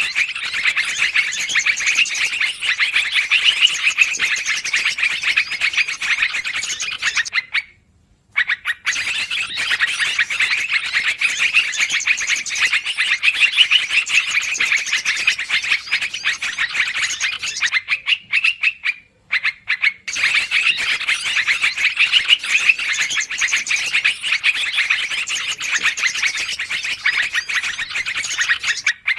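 Noisy, rapid chattering calls of yellow-vented bulbuls (trucukan), played as a bird-trapping lure, in three long dense bouts broken by two brief pauses.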